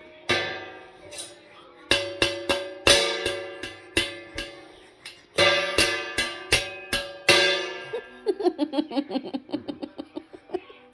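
A plucked string instrument strummed irregularly, each chord ringing out and fading. From about eight seconds in it turns to a quick run of lighter plucked notes.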